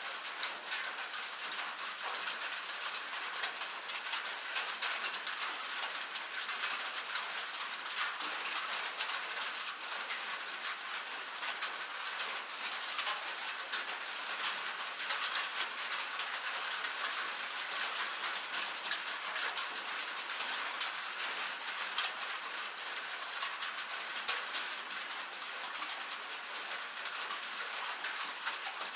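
Rain pattering on a metal roof: a dense, steady spray of fine, bright drop ticks.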